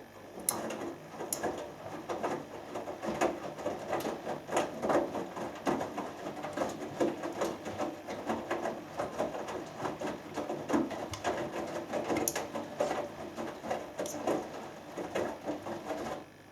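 Hoover Dynamic Next front-loading washing machine tumbling its drum during the main wash: wet laundry turning over and splashing, with many light clicks and knocks. It starts suddenly and stops after about sixteen seconds as the drum pauses.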